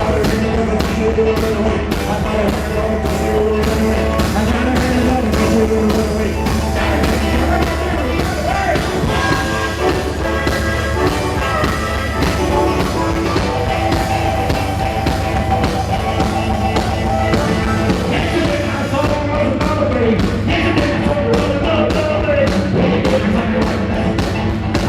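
Live rock and roll band playing with a steady drum beat, with no sung words.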